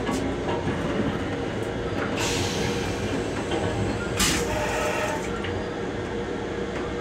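Steady hum and rumble of a Metro-North M7 electric railcar heard from inside its restroom, with a hiss of air for about three seconds starting a couple of seconds in.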